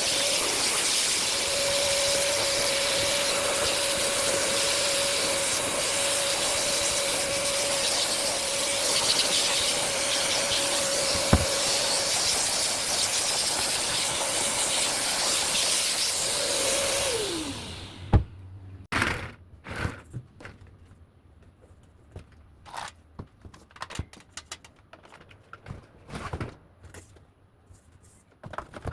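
Vacuum cleaner running steadily with a whine, switched off about seventeen seconds in and winding down in pitch, followed by scattered clicks and knocks.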